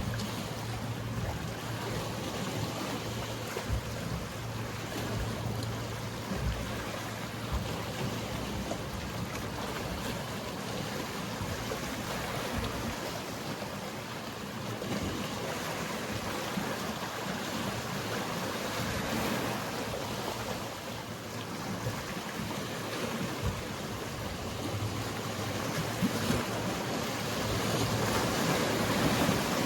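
Mediterranean sea waves washing against the shore in a steady wash. A low steady hum of a boat engine sits under it for the first several seconds and comes back near the end.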